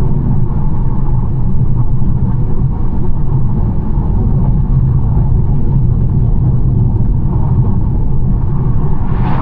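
BMW 1 Series on the move: a steady low rumble of engine and tyres on the road.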